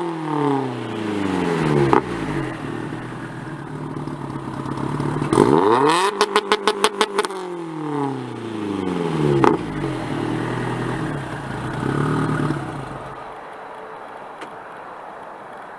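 Exhaust of a turbocharged 2010 Subaru STI's 2.5-litre flat-four through a GrimmSpeed catback, revved up and down several times. About six seconds in, a rapid stutter of about eight loud pulses, then more falling and rising revs, settling to a lower, steadier sound near the end.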